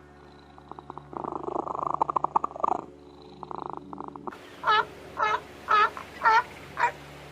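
Domestic cat purring, a rough rapid pulsing that swells and fades in stretches. After a sudden change in background about four seconds in, a young animal gives five short, high, arching yelps about half a second apart.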